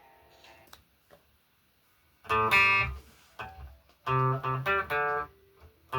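Guitar strummed: a single chord rings out about two seconds in, then after a pause a quick run of short, choppy strummed chords.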